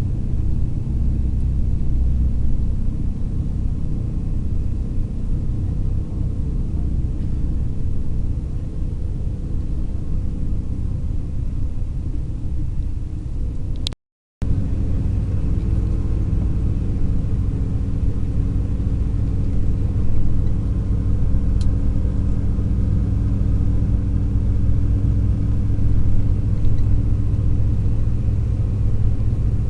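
Long-distance coach bus on the move: a steady low engine and road rumble, with a brief dropout about halfway through where the recording cuts, after which the engine's hum is a little stronger.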